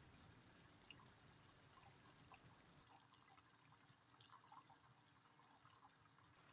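Faint light rain: a soft steady hiss with scattered small drips.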